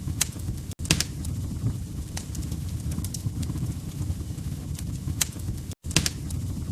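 Log fire crackling: a steady low rumble of burning wood with scattered sharp pops and snaps. The sound cuts out completely for an instant twice, just under a second in and near the end.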